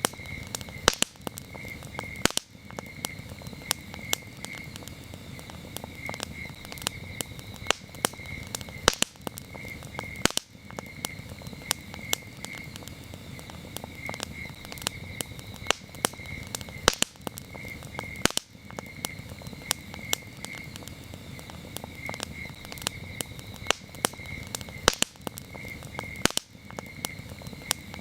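Wood campfire crackling, with frequent sharp pops over a low hiss of burning. Crickets chirp throughout in a steady pulsed trill.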